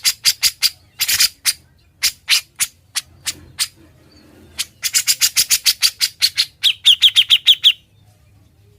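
Grey-cheeked bulbul (cucak jenggot) singing loud, sharp, staccato notes in short groups of three or four, then breaking into a fast rattling run of about six notes a second that ends about a second before the end.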